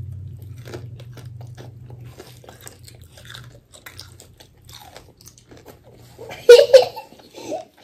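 Chewing and biting into crispy fried chicken close to the microphone: a steady run of small crunches and wet mouth clicks. About six and a half seconds in, a child's voice breaks in loudly and briefly.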